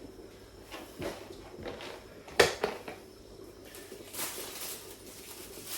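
Clatter of an oven door and a roasting tin being handled: a sharp knock a little over two seconds in, then a short hiss about two seconds later.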